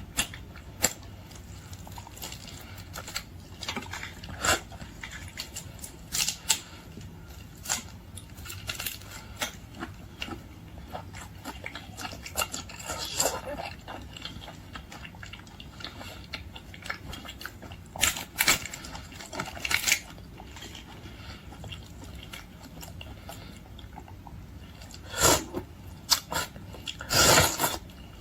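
Close-up eating sounds: scattered clicks, cracks and crackly rustles of boiled shrimp and lobster being handled and chewed, with occasional clinks of dishes or utensils.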